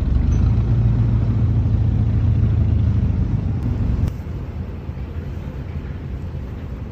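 Small ferry boat's engine running with a steady low drone, which drops abruptly to a quieter hum about four seconds in.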